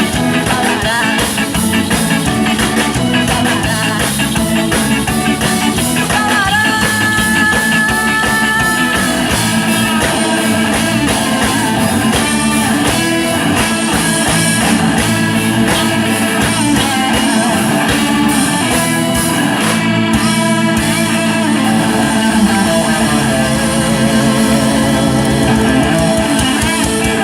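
A ska band playing live, with electric guitar, drums and singing, loud and continuous.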